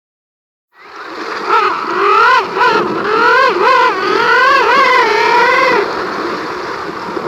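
An animal giving a run of wavering calls that rise and fall in pitch, several overlapping, over a steady background hiss; the calls start about a second and a half in and stop near the end.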